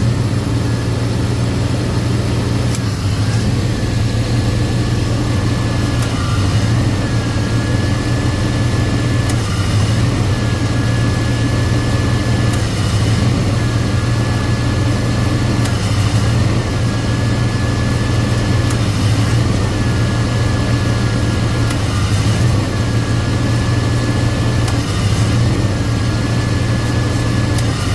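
Car engine idling with the A/C compressor running while R134a is charged in on the low side; a steady whine breaks and comes back about every three seconds, the compressor clutch cycling on and off as the system is still short of refrigerant.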